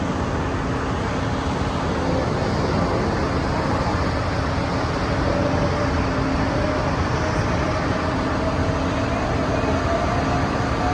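Aircraft engine noise: a steady rumble with a whine that slowly rises in pitch.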